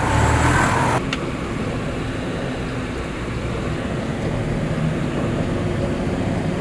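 Steady motor-vehicle and road traffic noise, a low rumble with a hiss, louder for about the first second and then even.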